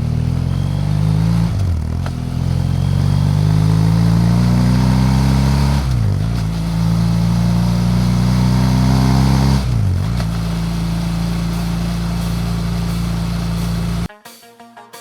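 BMW F 800 GS Adventure parallel-twin engine accelerating under way, with wind noise on the microphone. The engine note climbs, dips sharply at three upshifts, and climbs again each time. It cuts off abruptly near the end, giving way to electronic music with a steady beat.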